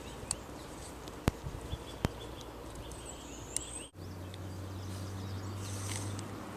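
Countryside outdoor ambience: a steady background hiss with a few sharp clicks and a short high chirp about three seconds in. After a cut, a steady low hum.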